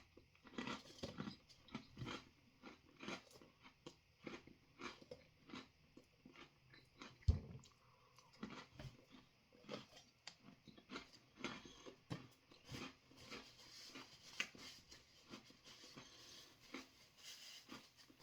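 Close chewing of a crunchy freeze-dried ice cream sandwich bar: a steady run of small crunches, about two a second, with one low thump about seven seconds in.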